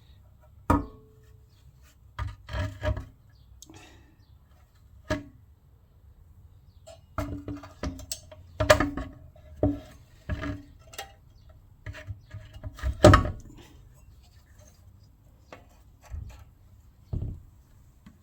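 Irregular knocks, taps and clunks of the fuel tank and its parts being handled and fitted onto a small Honda GX110 engine. The loudest clunks come about nine and thirteen seconds in.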